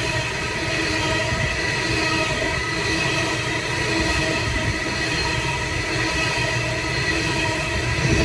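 Coal train's hopper wagons rolling past close by: a steady rumble of steel wheels on rail with a few faint steady ringing tones over it.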